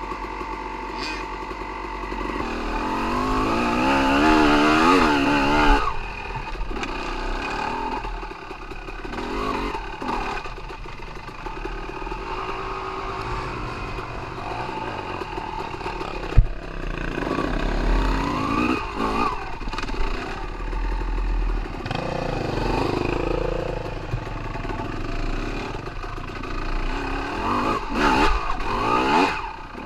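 Dirt bike engine running and revving up and down, with one strong rev a few seconds in that rises and falls. There is a single sharp knock about halfway through.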